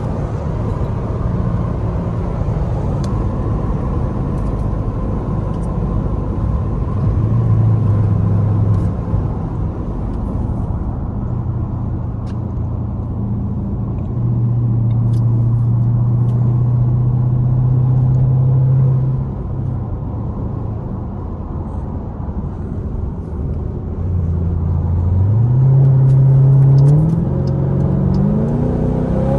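Straight-piped Dodge Durango R/T V8 exhaust droning at highway speed, its pitch stepping up and down with the throttle. Near the end it accelerates, the pitch rising and then jumping as it shifts gear.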